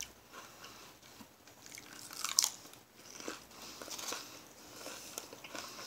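A person chewing a mouthful of raw salad with iceberg lettuce, in irregular soft crunches, the loudest a little over two seconds in.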